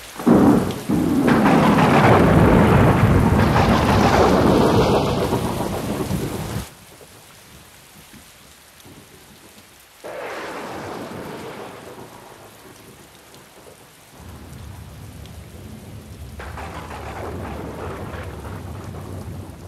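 Thunderstorm sound effect: a loud crack of thunder that rolls on for about six seconds and cuts off abruptly. Then steady rain, with another sudden rumble of thunder about ten seconds in and a further swell near the end.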